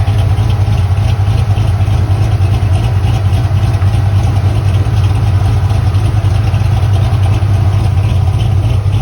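Chevy car engine idling steadily, a constant low hum with no revving.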